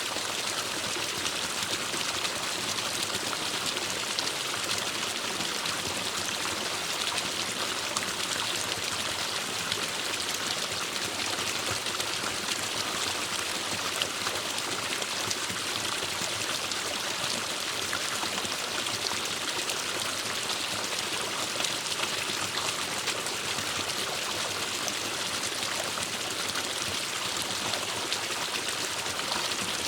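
Forest stream of water flowing and trickling steadily, a constant bright rush with small splashes.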